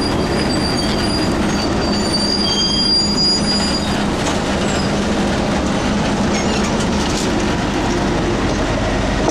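A transit vehicle in motion: a loud, steady rumble with thin, high-pitched squeals from the wheels or brakes during the first few seconds.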